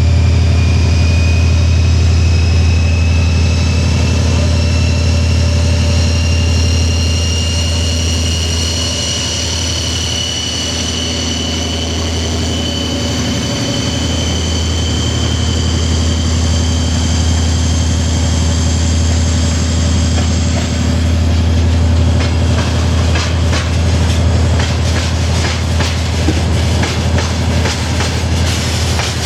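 2TE10M diesel locomotives with 10D100 two-stroke opposed-piston diesels working hard as the train pulls away: a heavy low drone with high whines slowly rising in pitch. From about two-thirds of the way through, a quick run of clicks from wagon wheels passing over rail joints joins in.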